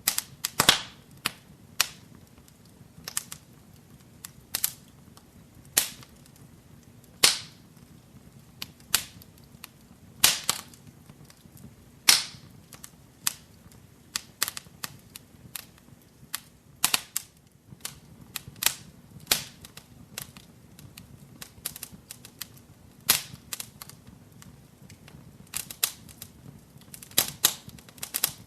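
Wood fire in a fireplace crackling, with sharp pops coming at irregular intervals over a faint low hiss of burning.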